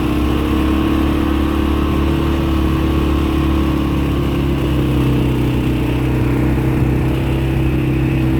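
ATV engine running steadily, its pitch holding nearly even.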